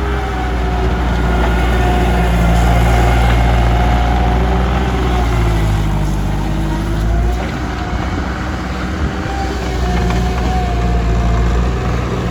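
Bobcat 864G skid steer's diesel engine running steadily; about six seconds in its note sags and then picks back up.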